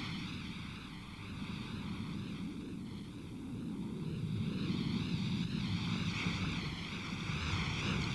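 Cartoon sound effect of a huge damaged spaceship descending through Earth's atmosphere: a steady low rush of noise with a wavering hiss above it.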